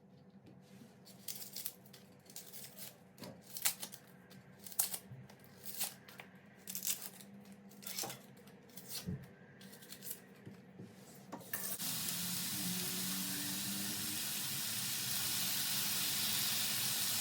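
A series of light clicks and rustles, roughly one a second, like small items being handled, then a kitchen tap turned on about twelve seconds in, its water running steadily.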